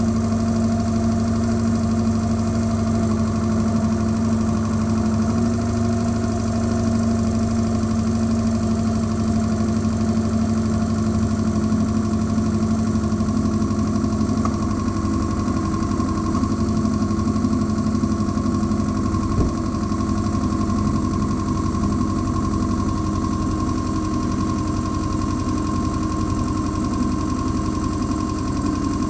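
2009 Subaru Outback 2.5's flat-four engine idling steadily, heard close up from the engine bay, running without misfiring. One short click about two thirds of the way through.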